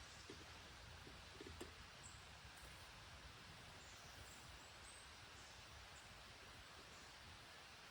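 Near silence: faint outdoor ambience with a steady low hiss, a few soft clicks or rustles in the first couple of seconds, and scattered brief, faint, high chirps.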